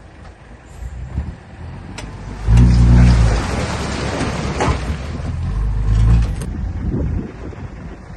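Heavy diesel engine rumbling, then revving hard in two loud surges about two and a half and six seconds in, with a rushing hiss between them.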